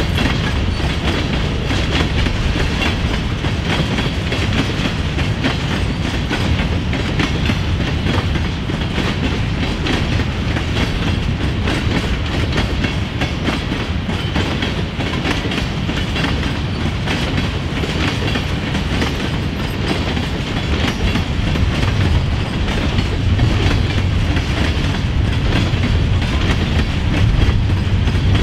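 Empty covered hopper cars of a grain train rolling past at steady speed: a continuous rumble with wheels clicking over the rail joints.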